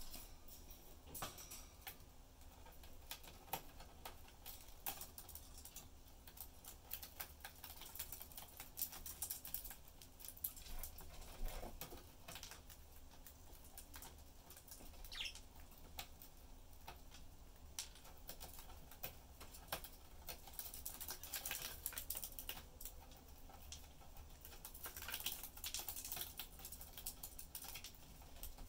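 Budgerigars busy in their cage: a running patter of light clicks and taps from beaks and claws on seed and cage, with a single brief chirp about halfway.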